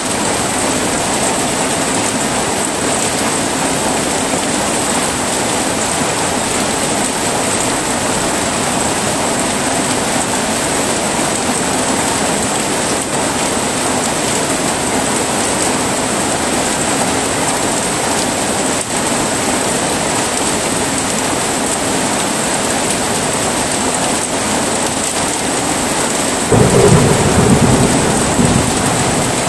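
Heavy rain falling steadily in a thunderstorm. A loud, low rumble of thunder breaks in near the end.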